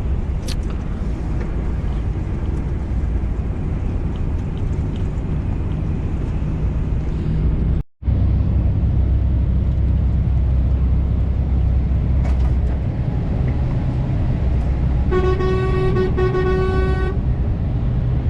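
Truck cab while driving: a steady diesel engine and road drone, then two short blasts on the truck's horn near the end, a warning to a DAF truck ahead that is shedding chunks of ice from its roof.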